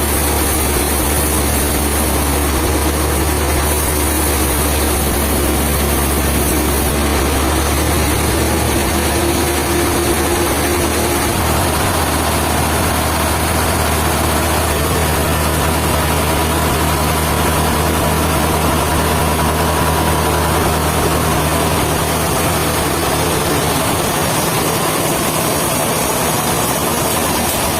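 Heavy machinery running steadily with a constant low hum, and a faint higher whine that comes in about halfway through.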